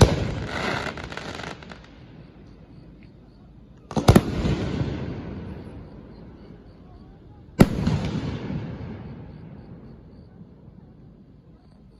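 Large aerial firework shells bursting close by. The crackle of one burst fades out in the first second or two, then comes a loud boom about four seconds in and another about seven and a half seconds in, each trailing off in a long rumble.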